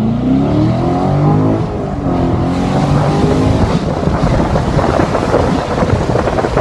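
Chevrolet C7 Corvette Stingray's 6.2-litre V8 through its dual-mode exhaust at full-throttle acceleration: the revs climb, drop at an upshift about two seconds in, climb again, then fade under a steady rush of wind noise.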